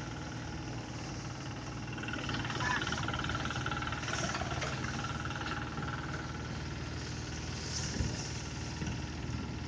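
Engine of a 'blower' rice threshing machine running steadily.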